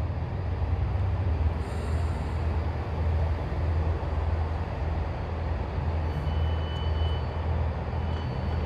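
Class 165 diesel multiple unit running at the platform, its diesel engines giving a steady low hum. From about six seconds in a thin high-pitched tone sounds on and off.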